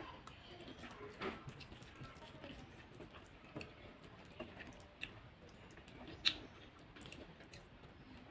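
Eating sounds: chewing and wet squishing of taro root curry and rice, broken by scattered small clicks, the sharpest about six seconds in.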